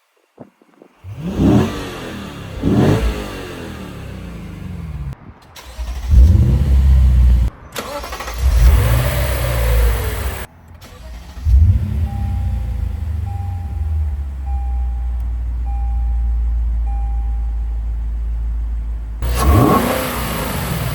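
Lexus IS 500 F Sport's 5.0-litre V8 revving through its exhaust, the pitch climbing and falling again several times across abrupt cuts, then running steadily for several seconds before revving again near the end.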